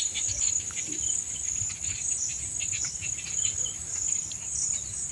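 Crickets chirping steadily in the background, a continuous high-pitched trill, with a few faint clicks.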